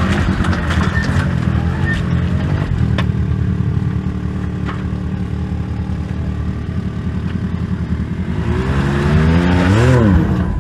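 Can-Am Maverick X3 side-by-side's turbocharged three-cylinder engine running at a steady low speed, then revving up sharply and dropping back near the end as it throttles into a steep rocky climb.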